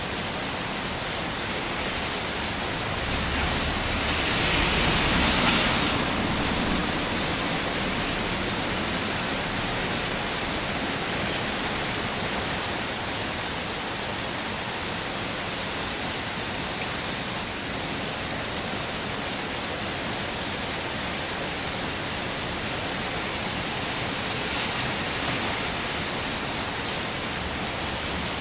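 Heavy rain falling as a steady, even hiss, swelling louder and deeper for a couple of seconds about four seconds in.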